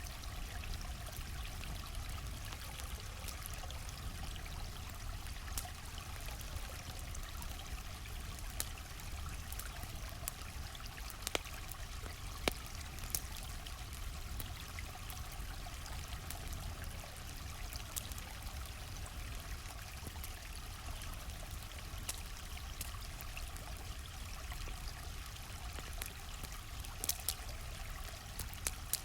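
A stream flowing steadily, with a campfire's sharp crackles and pops scattered irregularly over it. A few louder pops come about 11 and 12 seconds in, and near the end.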